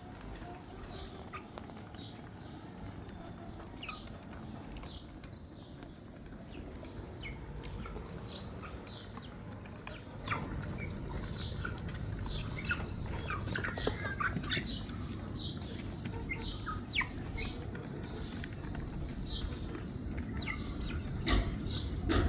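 Chicks peeping repeatedly in short, falling chirps, a few each second, over a low rumble that grows louder about ten seconds in.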